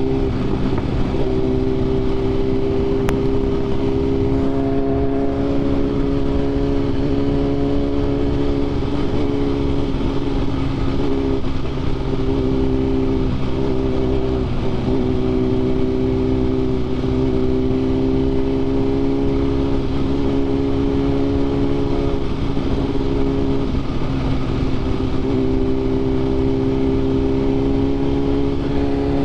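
Sport motorcycle engine with an aftermarket SC Projects CRT exhaust on Arrow titanium headers, running at a steady cruising speed. Its pitch holds mostly level, with a few brief dips.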